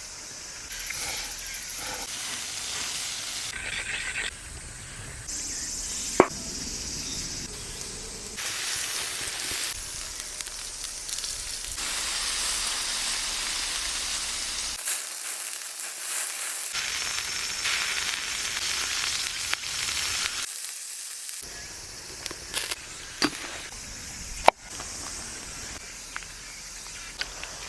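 Chicken sizzling as it cooks over a wood fire, with a steady hiss and a few sharp pops from the fire. The sound changes abruptly several times.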